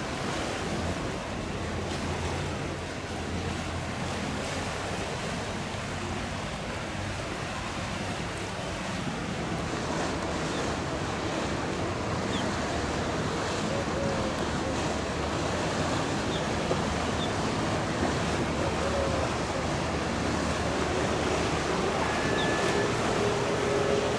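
Powerboat engines running on the water, mixed with the wash of waves and wind on the microphone. The sound grows gradually louder, and a steady engine note comes in near the end.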